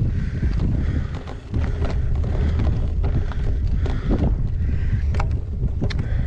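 Wind buffeting an action camera's microphone on a moving gravel bike, a loud steady rumble, with frequent short clicks and rattles from the bike as it rides over rough ground.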